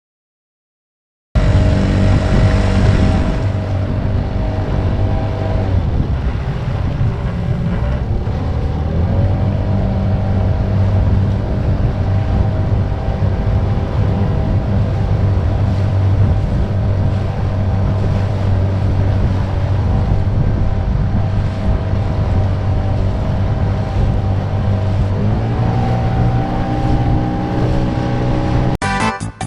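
Mercury 9.8 hp outboard motor pushing a small boat along, running steadily with wind on the microphone. The engine note drops about six seconds in and climbs again near the end as the throttle is opened. It starts after a brief silence and breaks into a rapid stutter at the very end.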